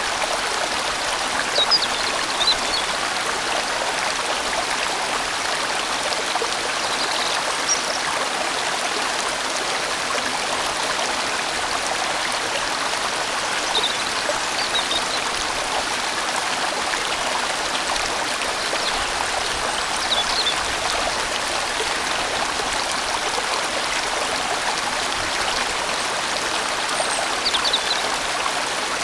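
A large valley stream flowing steadily, a dense, even rush of water. A few brief high-pitched blips stand out now and then.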